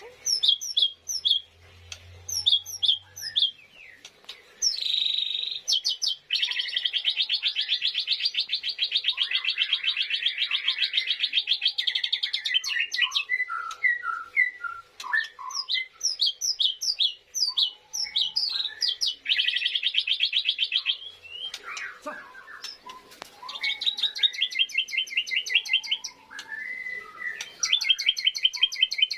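A caged lovebird of the jahe bule colour mutation calling: series of sharp high chirps broken by long, fast, rattling trilled chatter lasting several seconds at a time.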